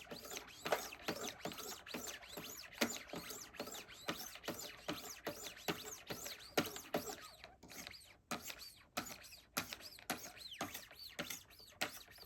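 1200-grit ceramic stones of a Wicked Edge Go guided sharpener stroked along the steel blade of a tanto-point knife, a quick run of scraping strokes about two to three a second with short pauses.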